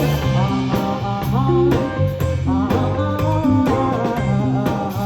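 A live band playing: a moving bass line under bending guitar or vocal lines, with regular drum kit hits.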